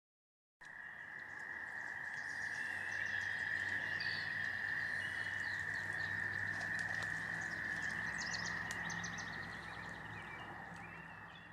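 A chorus of frogs calling: a steady, unbroken trill at one pitch, with scattered bird chirps above it.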